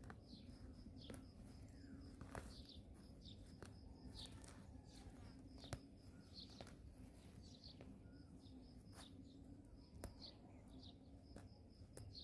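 Faint outdoor background of small birds chirping, short high calls repeating about once a second over a faint high trill. Scattered sharp clicks and a low steady hum sit underneath.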